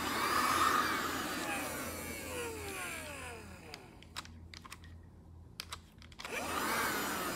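Black+Decker Dustbuster cordless handheld vacuum switched on with a rising whine, then winding down in falling tones once switched off. It is switched on and run down again about six seconds in.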